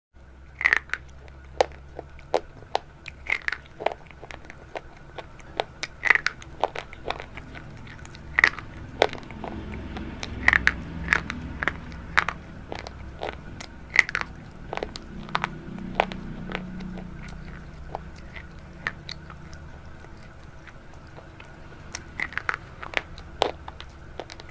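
Crisp crunching of something brittle, close up: irregular sharp snaps and crackles, one or two a second, with louder crunches every couple of seconds.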